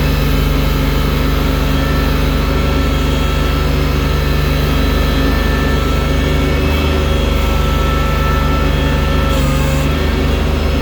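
Engine of a snow-clearing machine with a front loader bucket running steadily at a constant speed, with a low throb under it.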